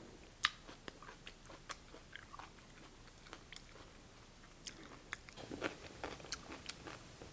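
Close-miked chewing of crunchy cucumber in cold cucumber soup: a string of short crisp crunches and mouth clicks, the sharpest about half a second in, coming thicker in the last couple of seconds.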